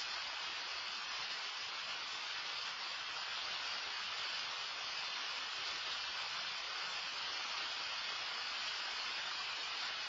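Rain falling steadily: an even hiss with no single drops, knocks or other sounds standing out.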